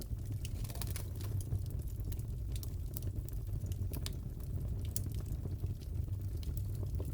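Fireplace crackling: a steady low rumble with scattered sharp pops and snaps.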